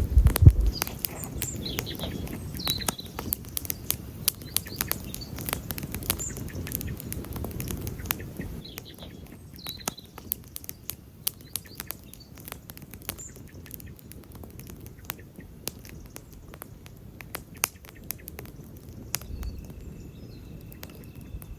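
Wood campfire crackling with irregular sharp pops, the loudest about half a second in. Birds chirp briefly in the background, a few short calls in the first few seconds and again around ten seconds in.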